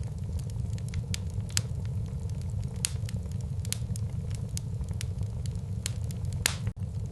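Wood fire burning in a fireplace: a steady low rumble of flames with irregular sharp crackles and pops from the burning logs, one louder pop near the end. The sound drops out for an instant just before the end.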